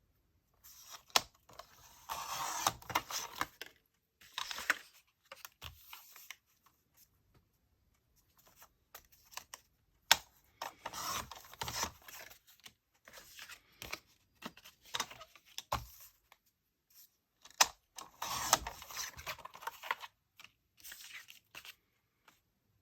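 Paper being cut to size and handled: several rasping strokes through paper lasting a second or two each, with sharp clicks and rustles between and quiet gaps.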